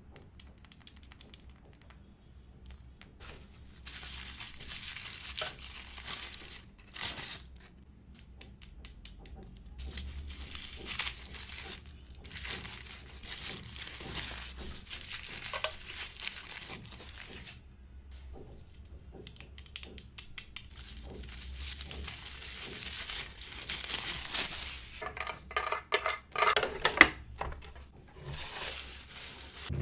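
Plastic wrapping of an LOL Surprise doll package crinkling and tearing as it is unwrapped by hand, in irregular bursts with short pauses and small clicks between.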